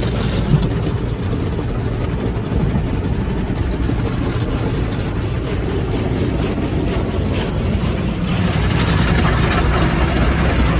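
Sonny's tunnel car wash running on the car, heard from inside the cabin: the scrubbing brushes and water washing over the body make a steady, dense rumble that grows a little louder about eight seconds in.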